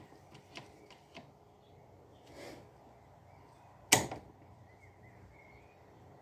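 Light clicks from plastic parts of a Roomba e5 robot vacuum being handled, with one sharp plastic snap about four seconds in.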